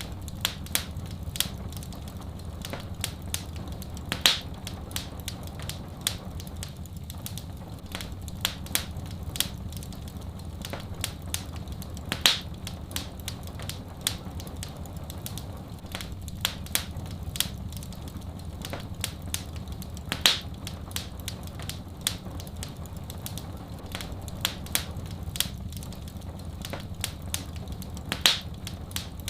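Wood fire crackling in a fireplace: a steady run of small sharp pops over a low, even rumble, with a louder snap about every eight seconds.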